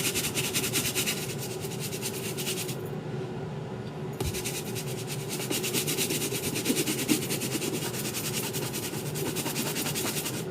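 A brush scrubbing a sneaker with shoe cleaner in quick, even back-and-forth strokes, stopping for about a second around three seconds in before carrying on.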